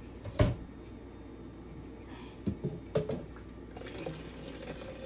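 Kitchen containers being handled: a sharp knock about half a second in, then a few lighter knocks and clinks around two to three seconds. Near the end a faint steady rush of water begins to run as more water is added to the juice mixture.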